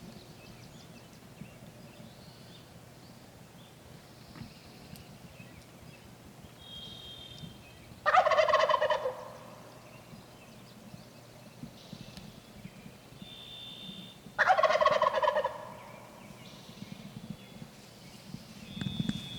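Wild turkey gobbler gobbling twice, about eight seconds in and again near fifteen seconds, each gobble a loud rattling call lasting about a second.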